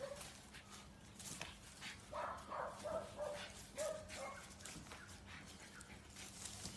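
A dog giving a few short, faint calls in small clusters, about two seconds in and again around four seconds, with scattered light clicks and taps around them.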